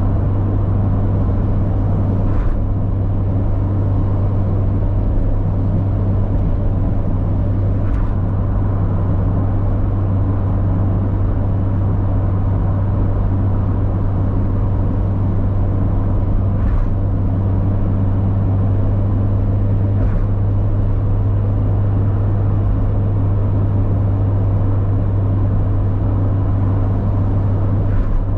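Mazda MX-5 Miata's 1.8-litre four-cylinder engine running steadily at cruising speed, with tyre and road noise, and a few faint ticks.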